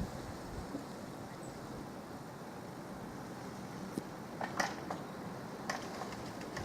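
Eurocopter AS355 F2 Twin Squirrel helicopter flying at a distance, a steady rumble, with a few short sharp sounds about four to six seconds in.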